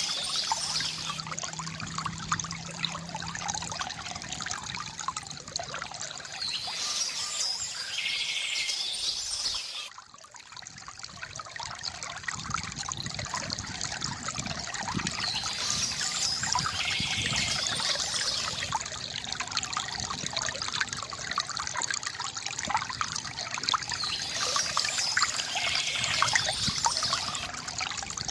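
Water trickling and splashing steadily from a bamboo fountain, with birds chirping at intervals. The water sound drops sharply about ten seconds in and builds back over a few seconds.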